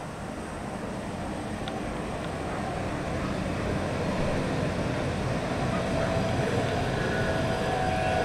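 Train approaching, its rumble growing steadily louder, with a steady whine coming in over the last few seconds.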